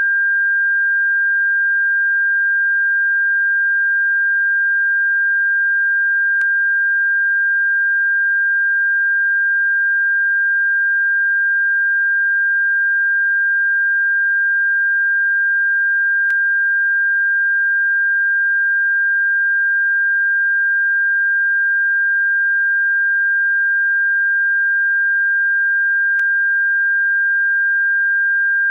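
Electronically generated bird-repellent tone: a single steady, high-pitched pure tone held at one pitch, with a faint click about every ten seconds.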